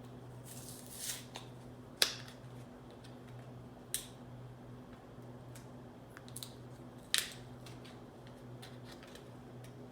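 A few sharp clicks and light scrapes of a Toyota smart key's small plastic case and battery being handled, the loudest click about two seconds in, over a steady low hum.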